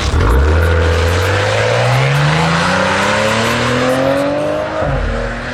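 Maserati accelerating at full throttle on a drag-racing pass. Its engine note rises steadily for about four and a half seconds, drops at an upshift near the end, then starts climbing again.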